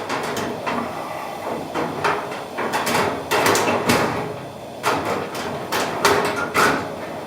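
A series of knocks and metallic rattles from a kerosene heater being handled: its burner chamber is lowered back into place after lighting.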